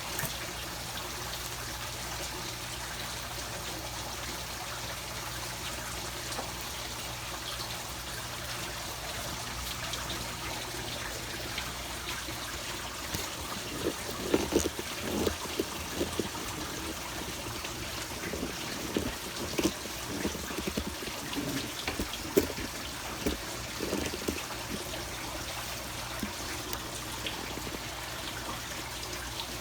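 Steady trickle of running water, with a run of irregular knocks and handling noises from about halfway in.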